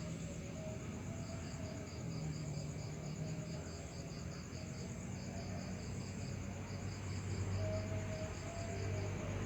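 Night crickets calling: a steady high trill with a second insect chirping in rapid, even pulses. Beneath them a low rumble swells toward the end.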